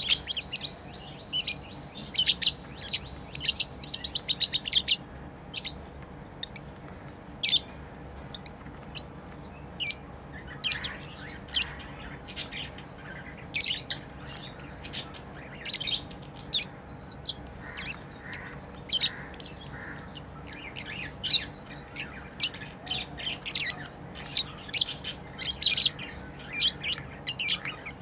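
Pet lovebirds chirping continually: short, sharp, high chirps and squawks in irregular bursts, with a quick rapid run of chirps about four seconds in.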